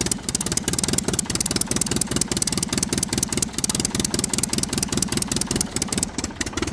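A motor running steadily with a fast, even knocking rattle, dipping briefly near the end.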